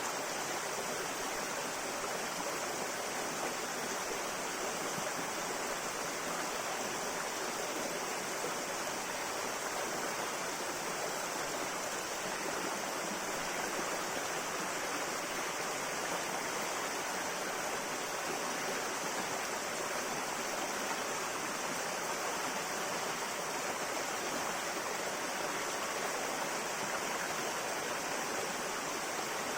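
River water flowing: a steady, even rush with no breaks or splashes standing out.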